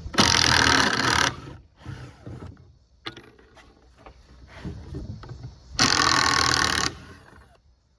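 Power drill running in two bursts of about a second each, near the start and about six seconds in, backing a screw out of the frame, with light knocks of handling between.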